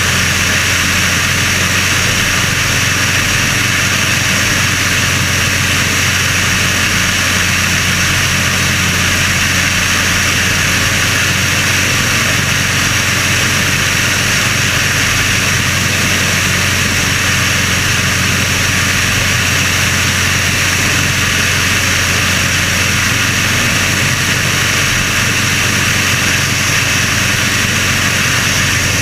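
Sonerai homebuilt airplane's Volkswagen-based air-cooled engine and propeller running steadily at constant power during engine break-in. The drone is loud, with a heavy low hum and a dense hiss over it, and it never changes.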